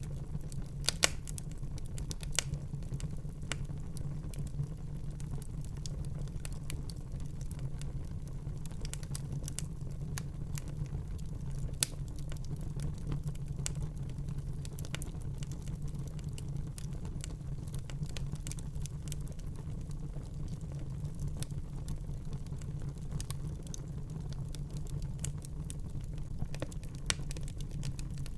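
Wood fire burning in a fireplace: a steady low rumble of flames with irregular sharp crackles and pops, a few of them louder, about a second in and again near the middle.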